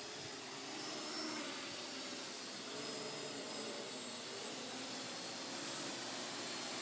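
Parrot AR.Drone quadcopter's four electric motors and propellers whirring as it flies, a steady hissing whir with a faint wavering whine.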